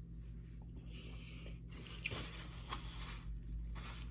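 Close-up eating sounds: chewing of McDonald's fast food, with soft scratchy mouth noise and a few small clicks.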